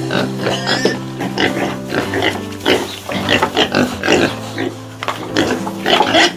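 Pig grunting, many short calls in quick irregular succession, over background music with steady held notes.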